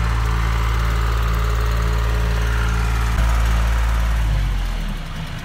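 John Deere tractor engine running steadily while levelling ground. It gets louder for a moment about three seconds in, then slows and quietens toward idle near the end.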